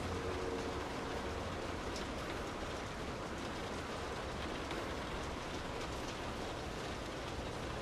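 Steady rain falling: an even hiss with scattered drop taps, and a faint hum in the first second or so.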